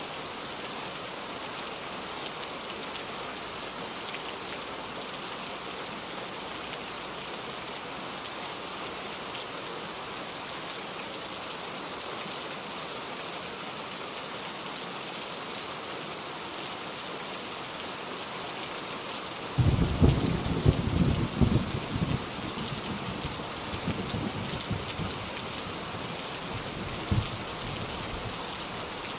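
Steady rain falling with an even hiss. About two-thirds of the way in a sudden loud clap of thunder breaks in and rolls on as rumbling for several seconds, with one more sharp peak near the end.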